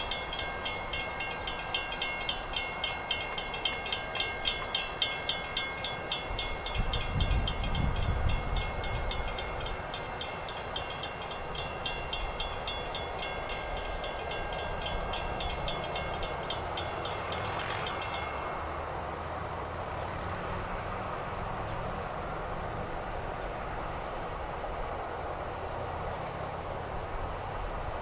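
Freight train cars rolling past, the wheels clicking rhythmically over the rail joints with a low rumble beneath. The clicking stops about eighteen seconds in, leaving a steadier rumble of the moving train.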